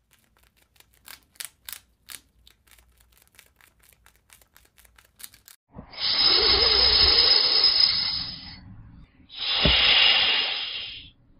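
A squirrel giving a quick series of faint clicks, followed by a snake hissing loudly twice, each hiss lasting about two seconds.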